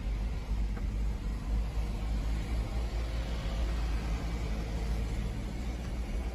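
Steady low rumble of a motor vehicle, like a car's engine and road noise.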